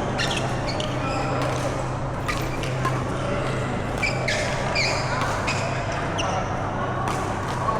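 Badminton being played in a hall: short, high squeaks of shoes on the court floor several times and sharp racket hits on the shuttlecock. These sit over background voices and a steady low hum.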